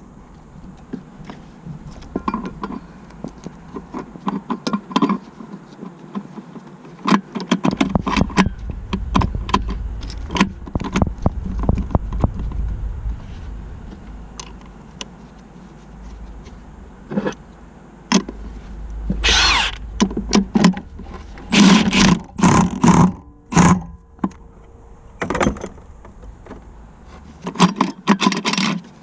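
Metal tools and parts clinking, knocking and rattling during hands-on car repair work, in irregular clusters of sharp strikes, with a low rumble underneath for a stretch in the middle.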